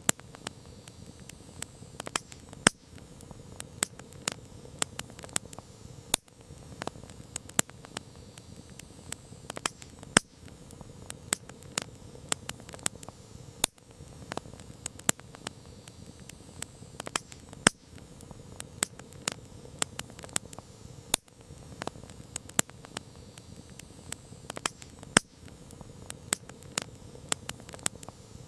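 Campfire crackling: irregular sharp pops and snaps, several a second, over a steady low noise of the burning flames.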